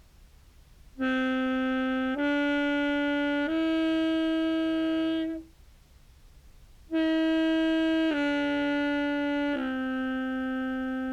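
Contrabass clarinet played in its highest register: a phrase of three held notes stepping upward, a short pause, then three held notes stepping back down.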